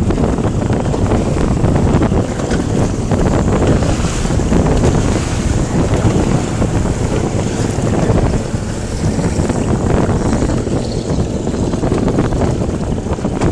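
Wind buffeting the microphone: a loud, steady rushing rumble with no break.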